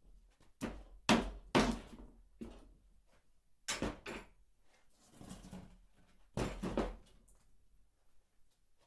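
Several short knocks and scrapes, each under a second long, with quiet gaps between them.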